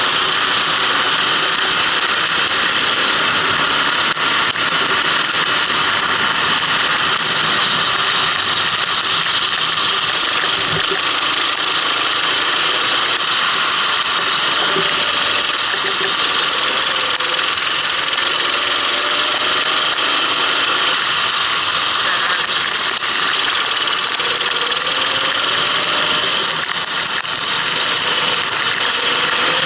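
Racing kart engine running hard, heard from on board, its pitch rising several times as the kart accelerates, under a steady rushing noise.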